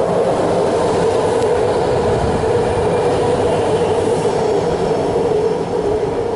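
BART train passing: a loud, steady rumble of wheels on rail with a held tone running through it, easing off near the end.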